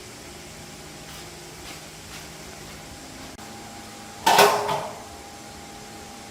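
A single loud clank, as of a metal part knocked or set down, about four seconds in, ringing briefly. Beneath it runs a steady hiss, with a few faint clicks in the first half.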